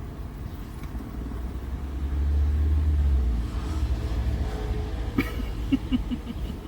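Low vehicle rumble that swells for about a second, like a car passing, then a sharp click about five seconds in followed by a few short soft sounds.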